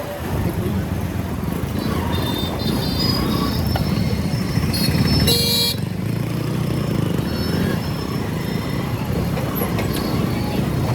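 Motorcycle engine running with road and traffic noise while riding through city streets, and a short vehicle horn honk about halfway through.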